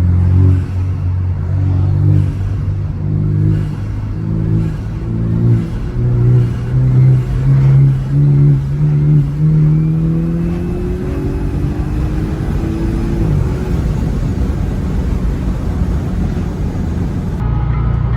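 BMW 428i coupe's turbocharged four-cylinder with an aFe cold-air intake, revved in a run of short throttle blips about every half second whose pitch creeps upward, then one longer rising rev that drops off about thirteen seconds in, after which the engine runs steadily.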